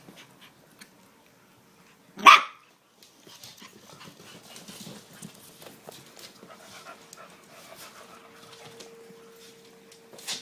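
A dog barks once, sharply, a little over two seconds in; then quiet scuffling and small clicks of puppies playing, with a faint steady tone through the second half.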